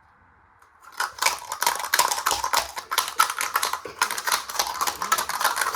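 Washing machine, driven through a speed controller, clattering and banging hard from about a second in, a fast dense run of knocks as the unbalanced drum spins and the machine shakes so hard it walks across the floor.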